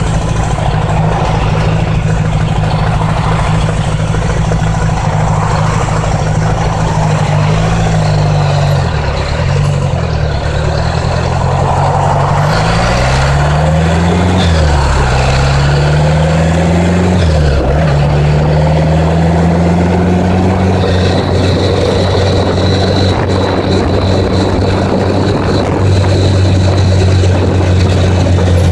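Honda Gold Wing motorcycle engine under way with wind rushing past. About a third of the way in the engine note dips, then twice climbs and drops sharply as the bike shifts up, and from a little past halfway it holds a steady cruising note.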